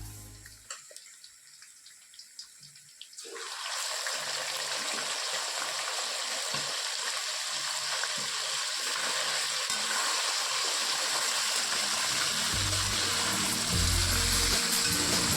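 Cooking in a hot pan starts sizzling suddenly about three seconds in and keeps on steadily, with a few faint clicks before it. Background music with a bass line comes in near the end.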